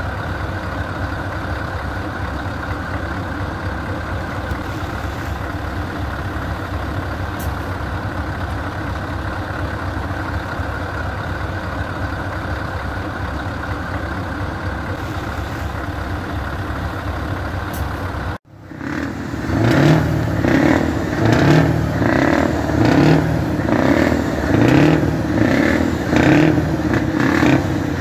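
Scania 164L 480 V8 truck engine idling steadily through its custom exhaust. After an abrupt cut about eighteen seconds in, it is revved repeatedly, louder, in quick rising blips roughly once a second.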